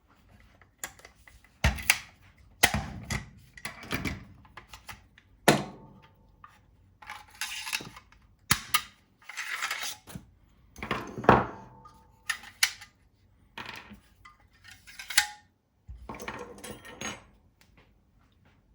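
Metal parts of an FN SCAR 15P clicking, clacking and sliding as the gun is field stripped by hand. The knocks come irregularly, with several longer scraping or sliding stretches between them.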